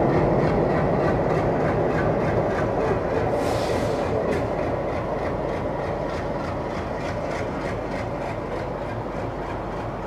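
Bangladesh Railway diesel locomotive hauling passenger coaches past at close range, the engine running under a steady rumble and the wheels clicking over the rail joints. The sound slowly eases as the locomotive moves off and the coaches roll by, with a brief hiss about three and a half seconds in.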